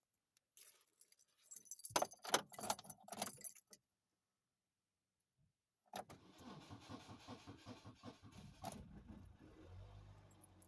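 Keys jingle and click in a 2008 Chevy Cobalt's ignition. After a pause the starter cranks the engine in a long, even rhythm, slowed by a bad crankshaft position sensor. Near the end the engine catches and settles into a steady low hum.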